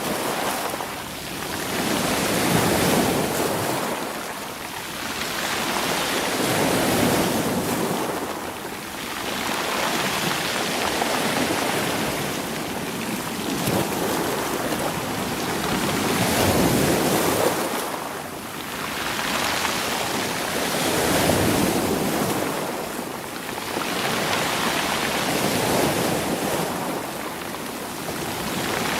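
Sea waves washing over rolling stones on a rocky shore, swelling and easing in slow surges every four to five seconds.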